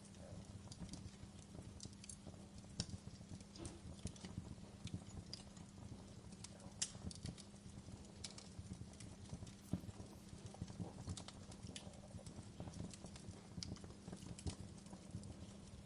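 Wood fire crackling in a fireplace: a faint steady low rumble with irregular sharp pops and snaps.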